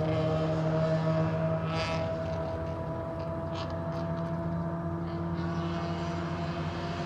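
Car engine running with a steady drone, its pitch holding level, with a few faint clicks over it.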